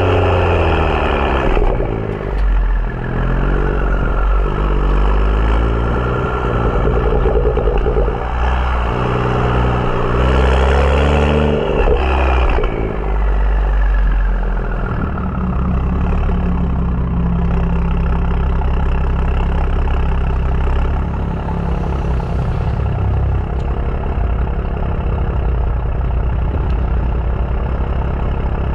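BMW F30 335i's N55 turbocharged straight-six with a catless downpipe and M Performance exhaust, its pitch rising and falling with the revs for the first half, then settling to a steady, deep idle about halfway through.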